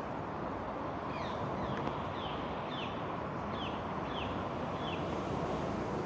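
Steady outdoor background noise with a small bird repeating short, high chirps, each falling in pitch, about every half second.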